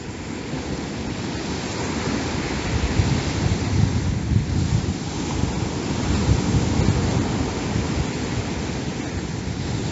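Storm wind gusting hard across the microphone, buffeting it, over the steady wash of large breaking sea waves; the gusts swell about three seconds in.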